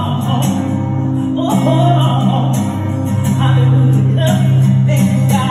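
Subway buskers playing music, with percussion and singing.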